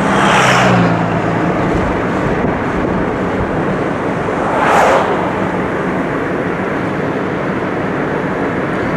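Steady road and engine noise of a car being driven, heard from inside the cabin. Two brief louder whooshes come about half a second in and near five seconds.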